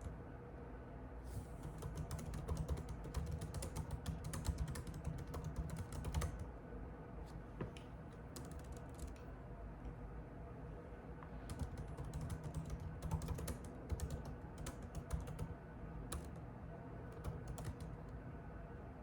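Typing on a computer keyboard: two bursts of rapid key clicks, one about a second in and one past the middle, with scattered single keystrokes between and after. A steady low hum runs underneath.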